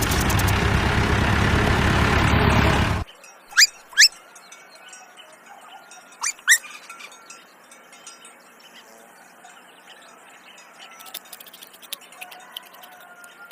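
A loud, steady noise cuts off suddenly about three seconds in. It gives way to quiet outdoor ambience with small-bird chirps: two quick rising chirps, another pair a couple of seconds later, then faint ticks near the end.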